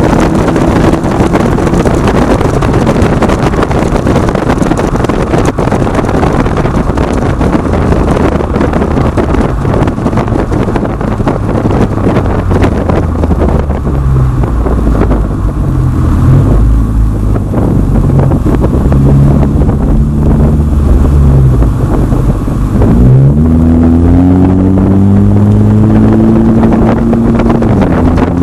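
2010 Acura TSX with Megan Racing aftermarket mufflers driving, its exhaust note mixed with road and wind noise. The engine tone shifts up and down with speed and climbs sharply about 23 seconds in as the car accelerates.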